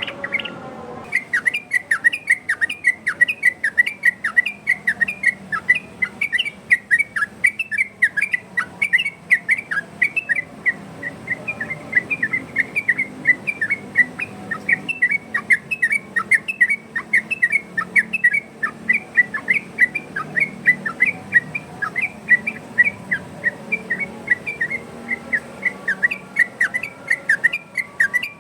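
Yellow-vented bulbul (trucukan) singing in the fast 'ropel' style: an unbroken run of short, sharp, whistled notes, about five a second, starting about a second in.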